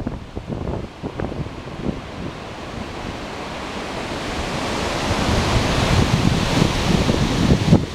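Strong gusty westerly wind rushing through trees, building over several seconds to a loud peak near the end, with low wind buffeting on the microphone throughout.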